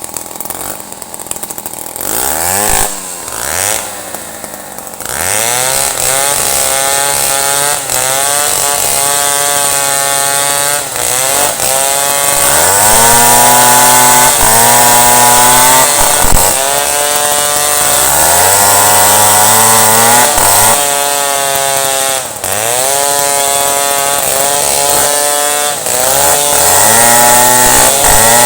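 A two-stroke chainsaw cutting wood. The engine is quieter for the first few seconds with one short rev, then runs at full throttle through the cut, its pitch dipping and rising again every second or two as the chain loads up in the wood.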